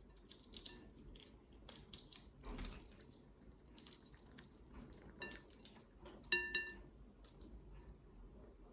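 Green cheek conure working a walnut with its beak: an irregular run of small clicks, taps and crunches, with a short squeak about six and a half seconds in.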